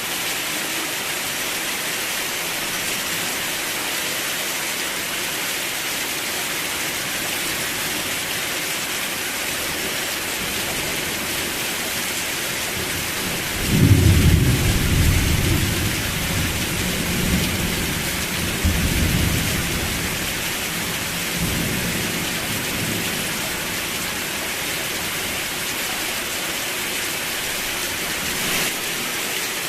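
Steady rain falling, an even hiss. About halfway through, a roll of thunder breaks in loudly and rumbles in waves for several seconds before fading back under the rain.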